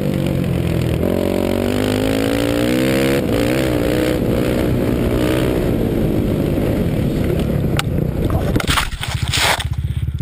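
Dirt bike engine revving, its pitch climbing and falling as the throttle opens and closes. About eight and a half seconds in there is a burst of loud scraping noise, and after it the engine drops to a low, evenly pulsing idle.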